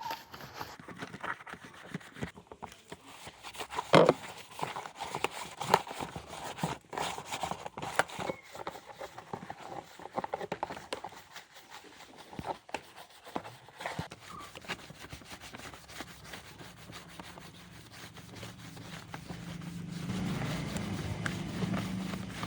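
Irregular clicks, taps and knocks of hand work on parts, with a sharp knock about four seconds in. Near the end a steady low hum builds up.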